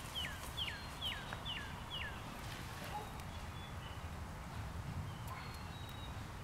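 A bird singing a run of clear whistled notes, each sliding downward, about two a second, stopping about two seconds in. A steady low rumble lies underneath.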